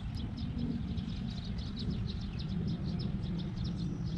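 A small bird chirping in a quick, even series of short high notes, about six a second, over a steady low rumble of wind or distant traffic.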